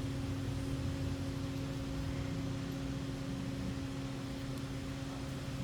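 Echo GT225 string trimmer's small two-stroke engine idling steadily after its first tune-up in 11 years.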